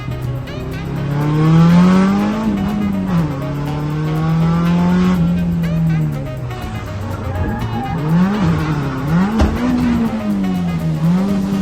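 Drift car's engine revving, its pitch climbing and falling repeatedly with quick lift-offs near the end, while the tyres squeal. Music plays underneath.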